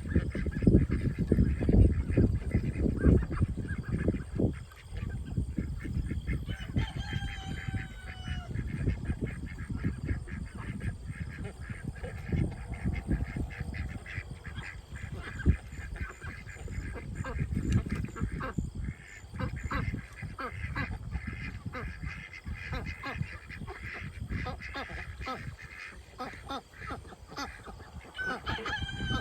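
A mixed flock of domestic ducks, Pekins and Khaki Campbells, calling and quacking as new birds settle their pecking order, with a few louder falling calls about seven seconds in and again near the end. A dense low rumble of short knocks runs underneath.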